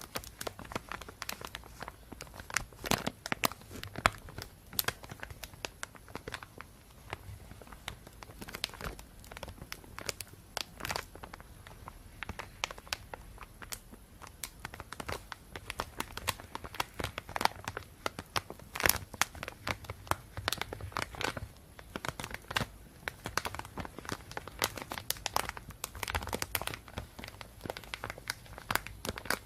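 Thin plastic bag being crumpled and handled, a continuous run of irregular sharp crinkles and crackles.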